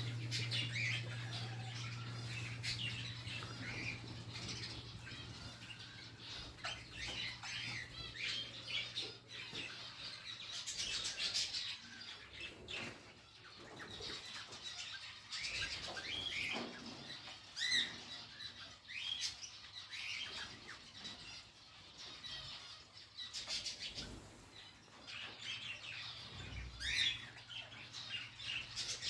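Aviary birds, rosellas and finches, chirping and calling in many short, scattered notes, with wings flapping now and then. A steady low hum runs underneath.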